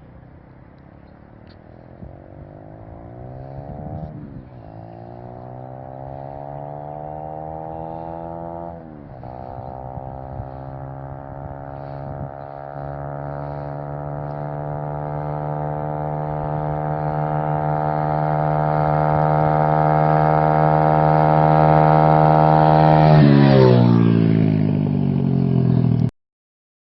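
2017 Apollo DBX18 pit bike engine, fitted with a 24mm Mikuni carburettor, accelerating toward and past the listener, its pitch climbing with two brief dips as it shifts up twice. It grows steadily louder, then its pitch drops sharply as it passes, and the sound cuts off suddenly.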